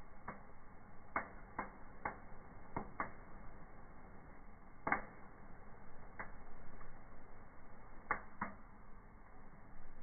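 Wood fire burning in a fireplace stove: irregular sharp crackles and pops over a low steady hiss, with one louder pop about halfway through.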